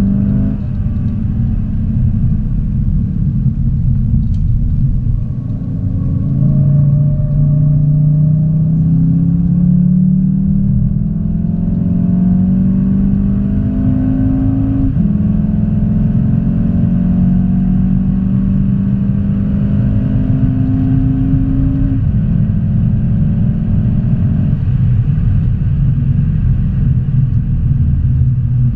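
Car engine heard from inside the cabin, pulling hard with rising pitch and changing up through the gears, each shift a sudden drop in pitch, over steady road and tyre rumble.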